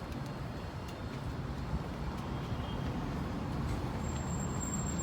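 Street traffic: a steady low rumble of engines and vehicles going by, with a thin high whistle about four seconds in.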